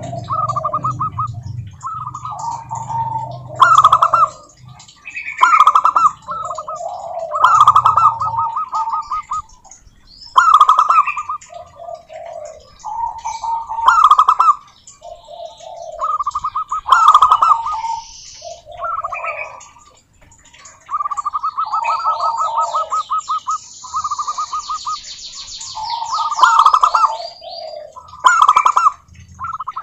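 Zebra doves singing, several at once: repeated cooing phrases built of quick rattling pulses, overlapping one another, each starting with a sharp loud note. In the second half a higher, rapid series of chirps joins in for a few seconds.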